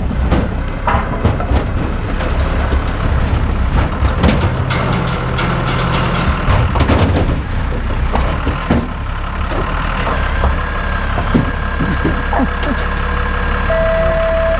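Forklift engine running under load, with scattered knocks and clunks from crated firewood being handled; a reversing beeper starts sounding in a regular on-off pattern near the end.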